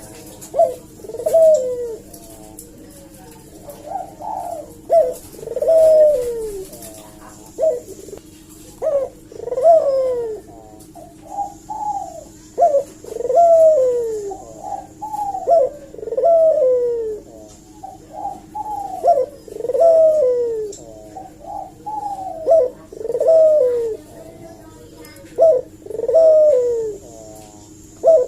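Puter dove (Barbary dove) cooing over and over, each coo a falling note, some short and some drawn out, coming every second or two, with a steady low hum underneath.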